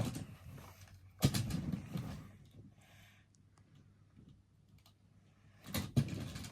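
Clicks and knocks of die-cast toy monster trucks being handled: one sharp knock about a second in, then a quiet stretch, then a few more clacks near the end.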